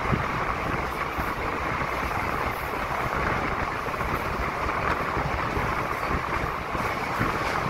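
Passenger train running through a tunnel, heard from an open coach doorway: a steady, loud rush of wheel and track noise with a low rumble underneath.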